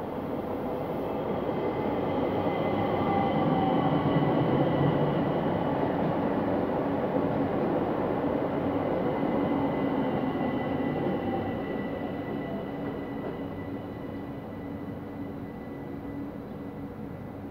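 ÖBB Talent electric multiple unit pulling into the platform: wheels rumbling on the rails with a steady high whine, loudest about four seconds in, then fading as the train slows and moves away down the platform.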